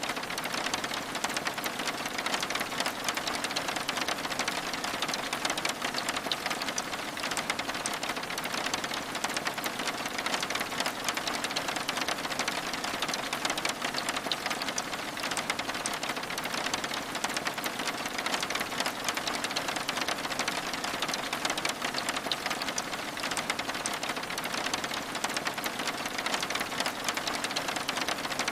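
Steady rain pattering on a window, a dense, even patter of drops that holds at one level throughout.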